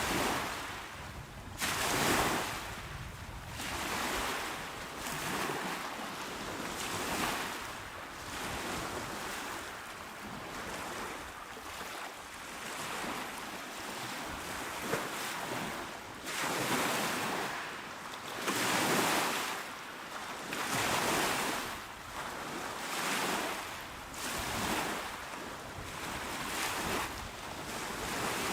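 Small, calm sea waves breaking and washing onto the shore, surging up and ebbing back every couple of seconds.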